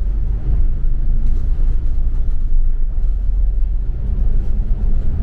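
Steady low rumble of a double-decker city bus, heard from inside the passenger cabin.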